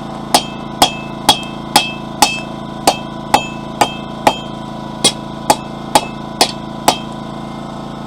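Blacksmith's hammer striking a hot mild steel bar on the anvil, flattening it: steady blows about two a second, each with a short metallic ring, with a brief pause a little past the middle.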